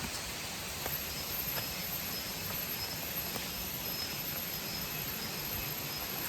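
Insects calling in the forest: faint, short chirps repeating over a steady hiss, with a couple of faint clicks about a second in.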